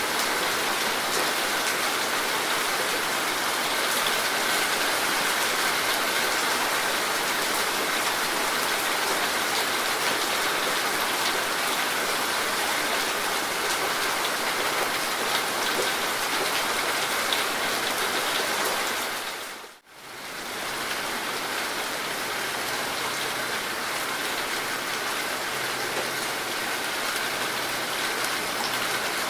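Steady heavy rain falling. About two-thirds of the way through it fades out briefly, almost to silence, then comes back slightly quieter.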